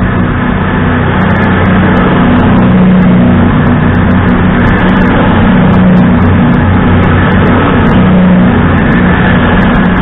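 CrossCountry Voyager diesel multiple unit passing close by at low speed, its underfloor diesel engines droning loudly and steadily, with sharp clicks scattered through.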